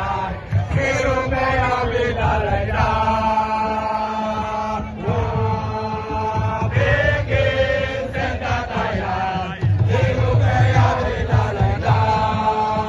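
A singer chanting long, held phrases that glide up and down in pitch, over music with a steady low beat.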